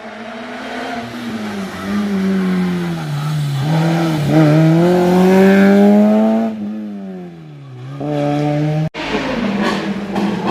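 Racing car's engine driven hard through a slalom course, its pitch dropping and climbing several times with lifts and re-accelerations. It eases off and falls in pitch near the end. About nine seconds in the sound breaks off abruptly to a harsher engine note.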